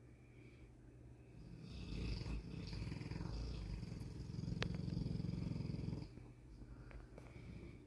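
Boerboel dog snoring: one long, rattling snore that builds about a second and a half in and stops abruptly about six seconds in. The owner puts the heavy snoring down to the dog's larger-than-average tongue.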